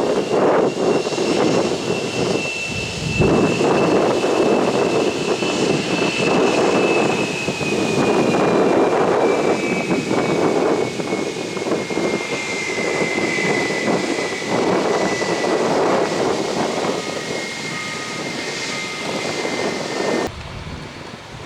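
Jet aircraft engines running close by: a loud roar under a high whine that slowly falls in pitch as the plane passes. The sound drops off suddenly near the end.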